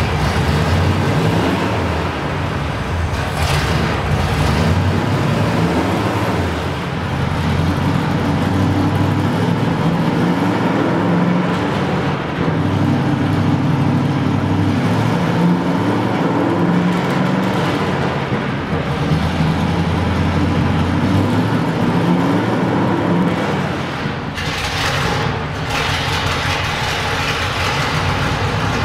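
Vintage Ford truck's engine running steadily, with a couple of brief louder noisy swells.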